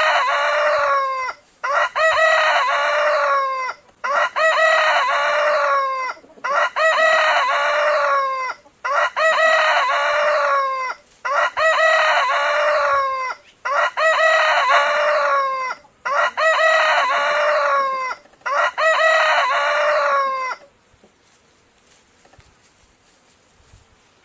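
A rooster crowing over and over: about nine alike cock-a-doodle-doo crows of some two seconds each, in quick even succession. It stops a few seconds before the end.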